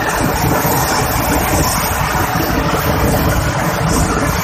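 Moving passenger train heard from an open coach window: a steady, loud rumble of the wheels running on the rails, mixed with the rush of air past the coach.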